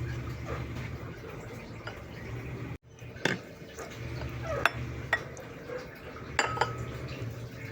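Kitchen dishes and utensils clinking and knocking, with several sharp clinks in the second half over a low steady hum.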